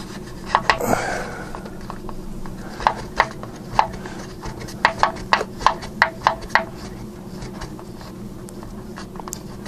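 Irregular light clicks and taps, about a dozen over a few seconds, as the oil drain plug on an air compressor's crankcase is worked loose by hand and wrench. A steady low hum runs underneath.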